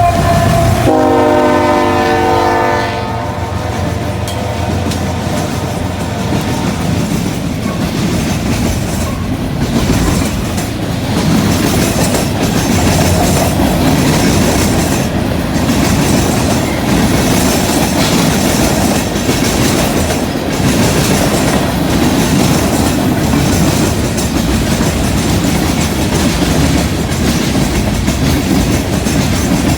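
Diesel locomotive horn sounding a chord that ends about three seconds in, followed by a freight train passing close by: the engines' heavy rumble and the wheels clacking steadily over rail joints and the junction switch.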